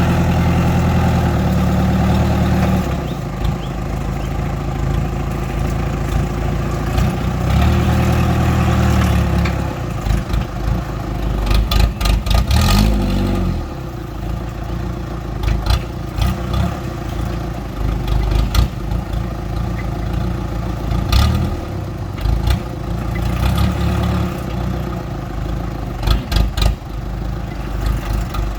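The truck engine of a homemade loader, running and revving up and down under use, with many sharp metallic clanks and knocks from about ten seconds in.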